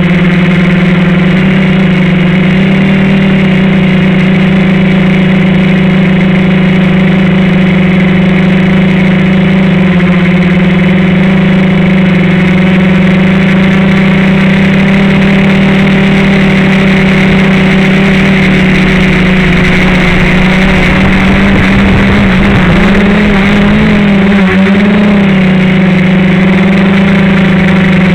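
FPV quadcopter's electric motors and propellers, heard from the onboard camera: a loud, steady droning hum whose pitch wavers for a few seconds about three quarters of the way through as the throttle changes.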